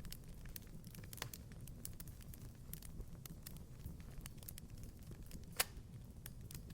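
Wood fire crackling in a fireplace: irregular small snaps over a low, steady rumble, with one louder pop about five and a half seconds in.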